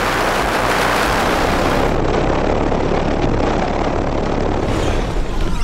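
Loud, steady buzzing rattle from a pickup truck's undeadened body panels and roof, shaken by heavy bass from twelve Sundown SA-10 subwoofers.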